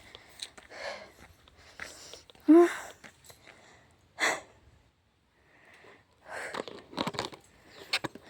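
Scuffs and crunches of shoes on loose rock and gravel as someone clambers down a steep rocky slope, with a short voiced grunt about two and a half seconds in and a few sharp clicks near the end.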